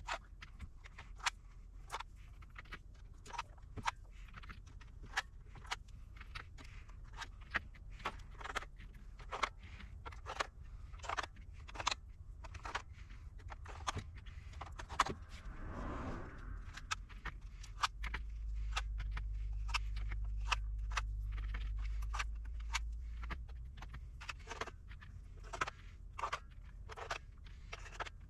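Irregular sharp clicks and light knocks, several a second, with a low hum for a few seconds past the middle.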